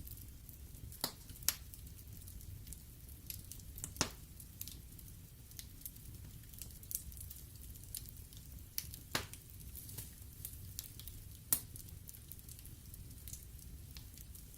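Wood logs burning in a fireplace, crackling with irregular sharp pops, the loudest about four seconds and eleven and a half seconds in, over a steady low rumble of the flames.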